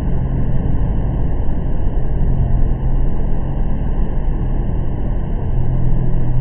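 Steady, deep rushing of a large artificial waterfall, a constant wash of falling water with no breaks.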